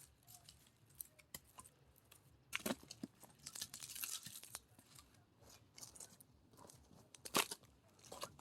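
Faint splintering and tearing of firewood as split pieces are worked apart, with scattered small cracks and a sharper crack near the end.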